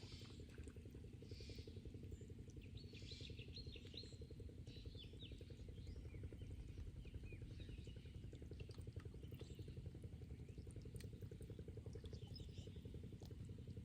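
Faint outdoor ambience: small birds chirping in quick high calls, mostly in the first few seconds and again near the end, over a steady low rumble.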